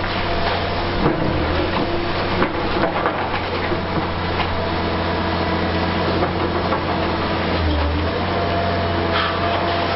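Diesel engine of a Liebherr R 960 high-reach demolition excavator running steadily, with scattered knocks and clatter over it.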